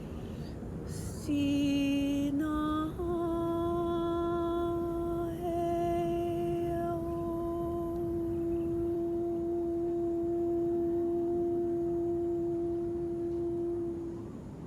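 A woman's voice toning wordlessly: a short note, a brief step up, then one long steady note held for about eleven seconds before it fades out near the end.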